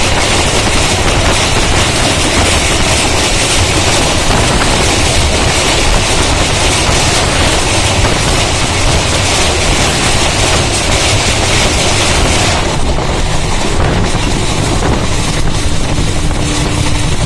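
Passenger train running at speed, heard from an open window or door: a loud, steady rush of wheel-and-rail noise and wind while crossing a river bridge. The high hiss thins out about three-quarters of the way through.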